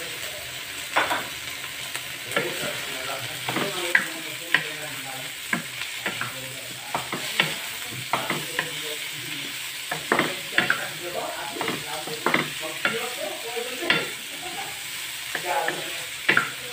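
Pork pieces, chorizo, garlic and onion sizzling in hot oil in a nonstick wok while a wooden spatula stirs them, knocking and scraping against the pan at irregular moments over a steady sizzle.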